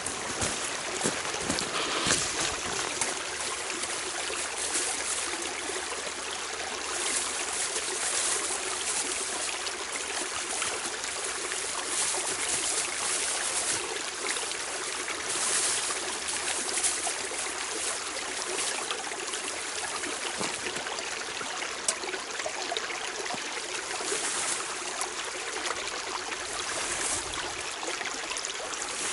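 Small forest stream running strong and fast, a steady rushing and gurgling of water swollen well beyond its summer flow.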